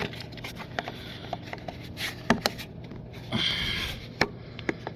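Hands fitting the air filter and its cover back onto a lawnmower engine: scattered small clicks and taps, with a brief scraping rustle about three and a half seconds in.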